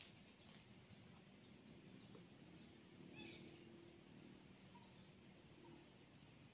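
Near silence: faint outdoor ambience with a steady high-pitched insect hum and a faint chirp that falls in pitch about three seconds in.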